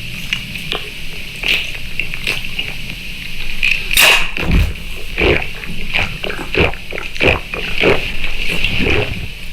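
A person eating noisily close to the microphone: wet chewing, smacking and slurping in quick, irregular bursts that grow louder and busier about four seconds in.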